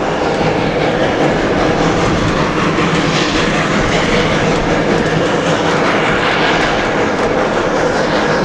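Steady rumble and rattle of the 1880 Train's wheels and coaches rolling on the rails, heard from aboard the moving train.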